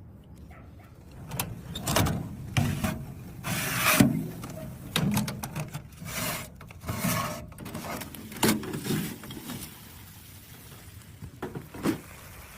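A dozen or so short scraping and rubbing noises at irregular intervals, most of them in the first nine seconds, with two sharper ones near the end.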